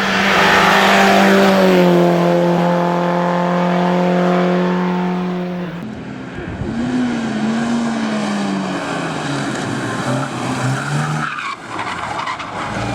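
Race car engines at full throttle: one car passes close, its engine note falling steadily as it goes by. A second car's engine then rises and falls in pitch as the throttle is worked.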